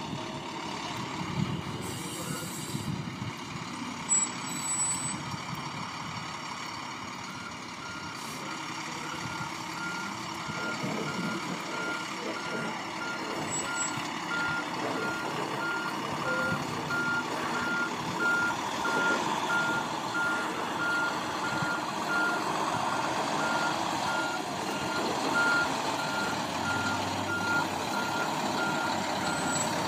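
Fire engine running as it backs in, its backup alarm beeping at an even pace from about seven seconds in. A couple of short sharp sounds stand out in the first few seconds.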